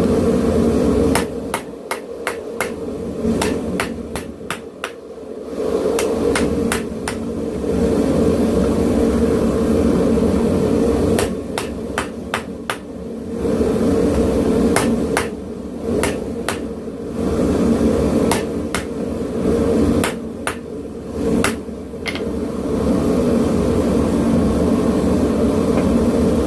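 Hammer blows on a hot railroad spike at the anvil, in runs of quick ringing strikes with short pauses between them, over the steady running of a propane forge.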